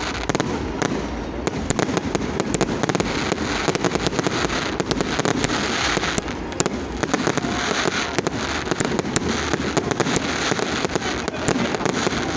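Many fireworks going off at once: a dense, unbroken crackle of rapid bangs and pops.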